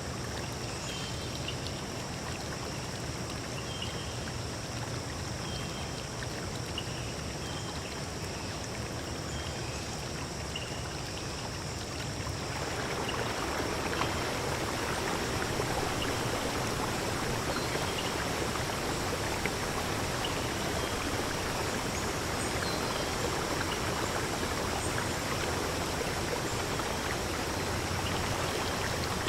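Stream water flowing steadily, turning to a fuller, louder rush about twelve seconds in. Faint short chirps repeat over it during the first half.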